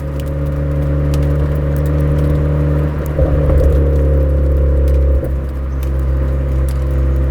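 Suzuki Swift Sport (ZC33S) 1.4-litre turbocharged four-cylinder sounding through a Fujitsubo aftermarket exhaust, running at fairly steady revs, with a change in the note about three seconds in and a brief dip a little after five seconds.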